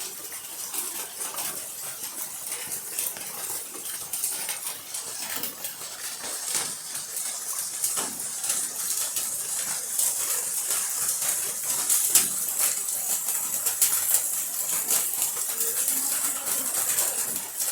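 Steady rain falling, a high hiss scattered with many sharp drip-like ticks, growing a little louder in the second half.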